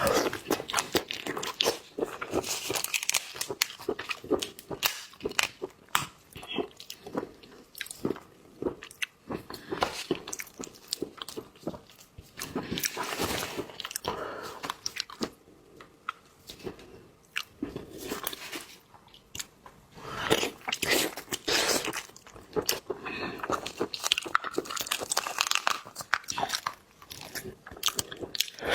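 A person biting and chewing crunchy food close to the microphone: dense wet crunches and mouth clicks in bursts, with short lulls between mouthfuls.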